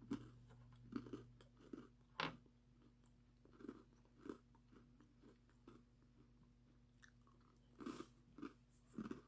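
A person chewing a crunchy cinnamon graham cracker snack with the mouth near the microphone, in irregular crunches, the sharpest about two seconds in and several more near the end.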